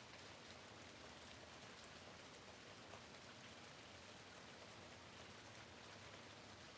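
Faint steady rain falling on a window, a soft even hiss with scattered small drop ticks.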